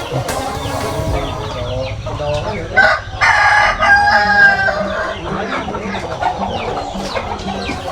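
A rooster crows once, loudly, about three seconds in, among quieter chicken calls.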